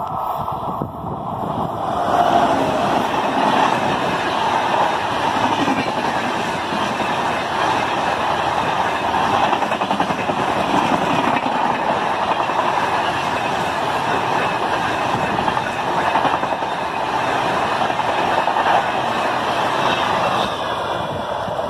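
Indian Railways express train of LHB coaches passing close by at high speed: a loud, steady rush of wheels on rail that comes in sharply about two seconds in and eases slightly near the end.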